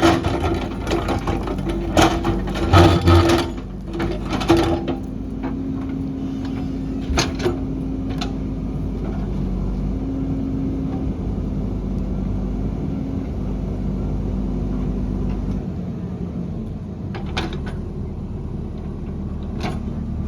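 JCB backhoe loader's diesel engine running, with clanking and knocks in the first few seconds, then a steady hum. The deep rumble drops away about fifteen seconds in.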